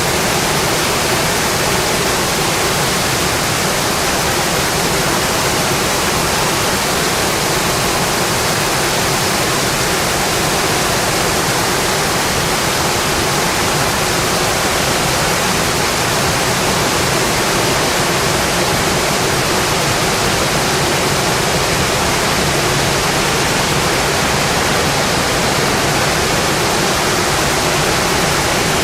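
Steady heavy rain, an even, dense hiss that does not change, with no separate drops or fire crackles standing out.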